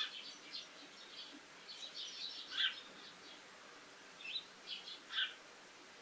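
Small wild birds calling: scattered short, high chirps, with the loudest notes about two and a half and five seconds in.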